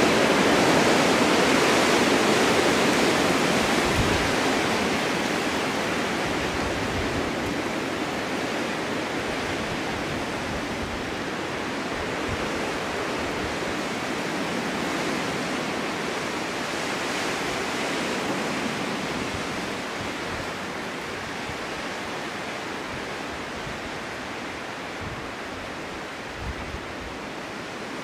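Snowstorm wind blowing, a steady rushing that swells in gusts, strongest near the start and easing off toward the end, with a few short low thuds.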